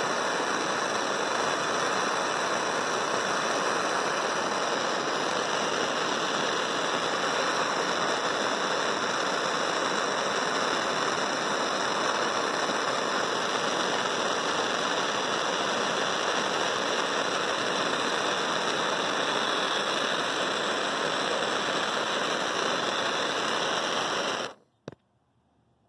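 Gas torch flame hissing steadily while heating ceramic fiber board; it cuts off suddenly near the end, followed by a single click.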